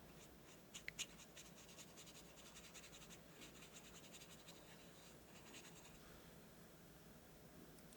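Faint scratching of a paintbrush on watercolor paper in quick, short strokes, with a few light clicks about a second in; the strokes die away after about six seconds.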